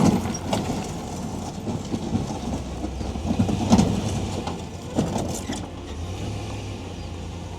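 A motor vehicle running, with a steady low rumble and scattered knocks and rattles, the loudest a little past halfway.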